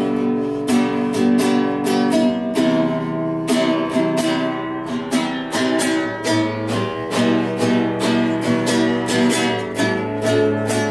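Acoustic guitar playing strummed chords in a steady rhythm.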